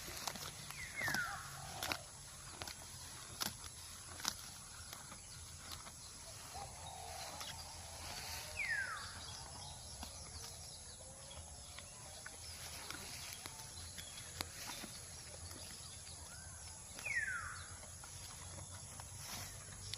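Cow grazing: short tearing and crunching clicks of grass being pulled and chewed. A falling whistle sounds three times, about eight seconds apart.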